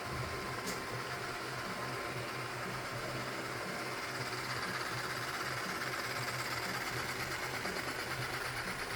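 Robot vacuum cleaner running, a steady motor and brush whir with a pulsing low hum, and a light click under a second in.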